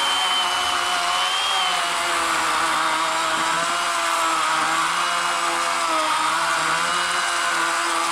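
A 40-volt WORX WG384 battery electric chainsaw with an 18-inch Oregon bar, running steadily and cutting down through the top of a fallen log. Its whine wavers slightly as the log starts to pinch the bar.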